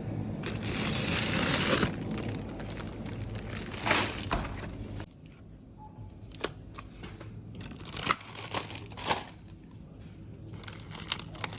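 Paper or plastic crinkling and rustling: a dense rush of crinkling in the first couple of seconds, then scattered crackles and clicks.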